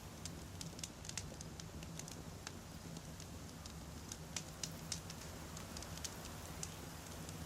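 Wood campfire burning, with irregular sharp crackles and pops from the burning logs over a steady low rumble of the flames.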